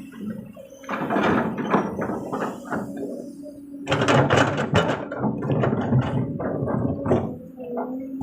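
Excavator engine running under a load of soil and rocks sliding and clattering from the bucket into a dump truck's bed, in two long rough pours starting about one and four seconds in.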